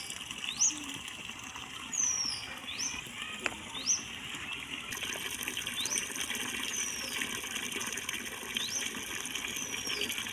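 Bird calls: short, high whistled notes, some sweeping up and some sliding down, repeated every second or two over a steady background hiss.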